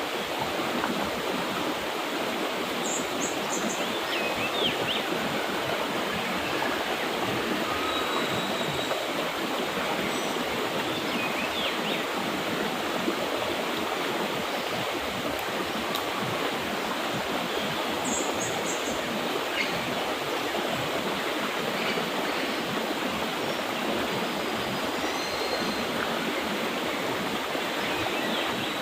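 Mountain river flowing steadily over rocks, a continuous even rush of water, with a few short, faint, high bird chirps heard now and then over it.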